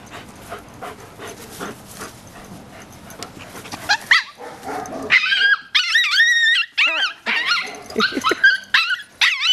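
Dog barking at another dog in high-pitched yips and whining cries that bend up and down in pitch. They start about four seconds in and come in quick, loud runs after a quieter opening.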